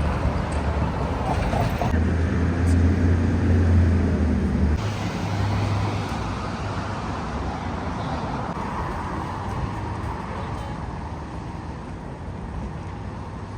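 Steady vehicle and road traffic noise: a low rumble under an even hiss, changing abruptly a couple of times as clips cut.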